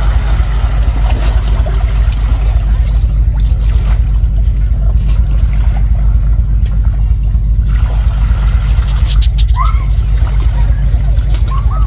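Strong gusty wind buffeting the microphone, a heavy fluttering rumble, as the tropical storm's wind picks up.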